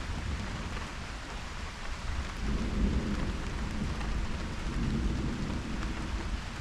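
Steady rain falling, with a low rumble of thunder that swells up about two seconds in and lasts a few seconds before fading back under the rain.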